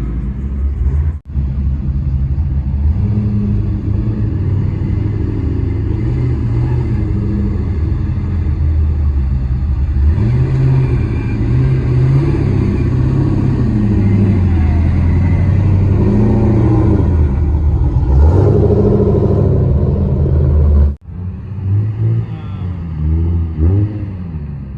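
Car engines running loud and being revved several times, the pitch rising and falling. The sound breaks off abruptly twice, about a second in and near the end.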